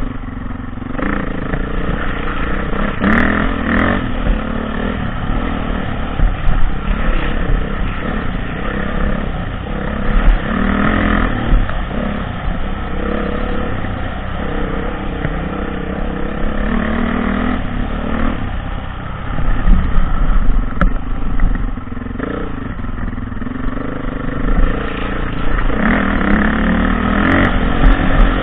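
Dirt bike engine running hard, revving up and easing off again and again as the throttle opens and closes.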